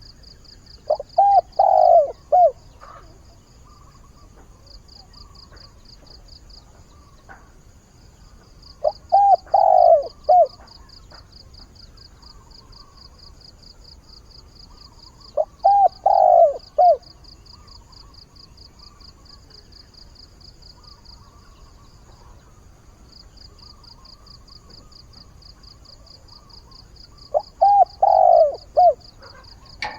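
A decoy spotted dove cooing in four phrases of a few quick notes each, roughly every six to twelve seconds. Behind it, a steady high-pitched insect trill pulses on, breaking off briefly now and then.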